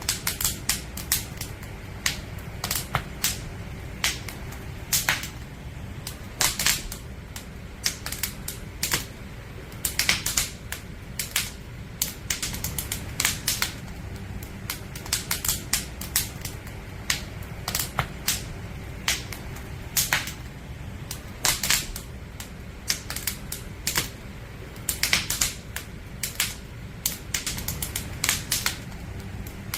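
Firewood burning in a campfire, crackling with irregular sharp pops and snaps that come in clusters, over a steady low rumble of the flames.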